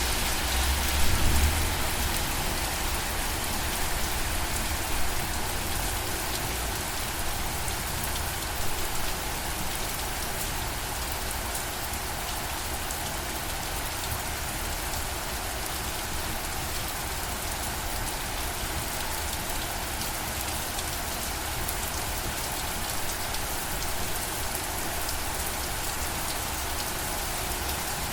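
Steady rainfall, an even hiss of drops on surfaces, with a few brief low rumbles in the first ten seconds.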